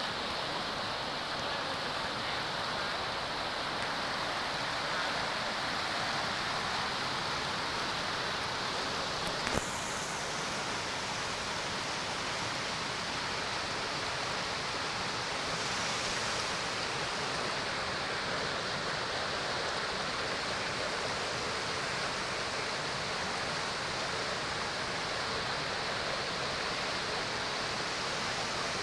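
Waterfall and stream water rushing steadily, with a single brief click about ten seconds in.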